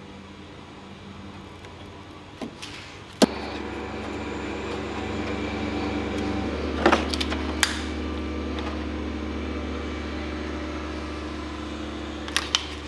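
Heat gun running to shrink heat-shrink tubing over a wire repair. There is a click about three seconds in and it runs louder after it, with a few light knocks of handling near the middle.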